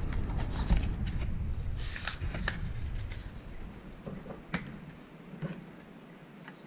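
Handling noise as a small tripod accessory is unpacked: packaging rustling, with scattered small clicks and knocks that grow fainter toward the end.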